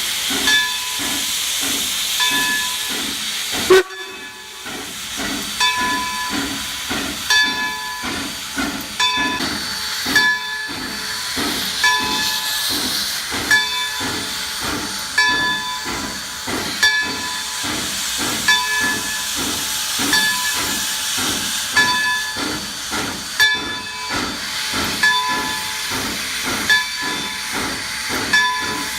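Steam locomotive working, with steady steam hissing over a regular beat of exhaust chuffs and short repeating metallic tones.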